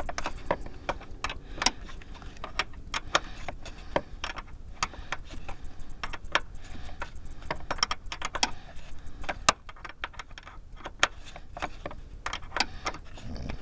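11 mm wrench clicking and clinking against a nut and bolt as it is worked a fraction of a turn at a time: a run of sharp, irregularly spaced metal clicks, several a second. The nut is being tightened and has not yet gone tight.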